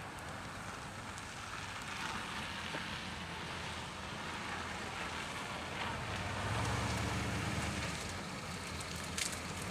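1956 Ford Thunderbird's 312 cubic inch V8 idling steadily, louder for a second or so past the middle, with a light click near the end.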